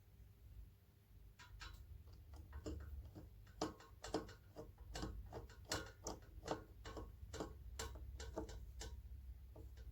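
Irregular clicks and ticks, two or three a second, of a Phillips screwdriver turning screws into a ceiling fan's housing. They start about a second and a half in and stop near the end, over a faint low hum.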